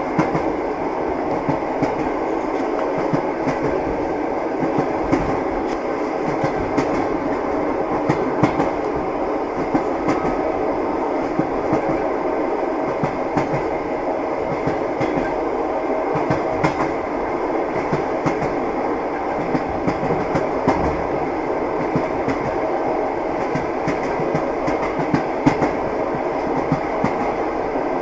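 Moving train: a steady rumble of the running railway car, with wheels clicking and clattering over the rails.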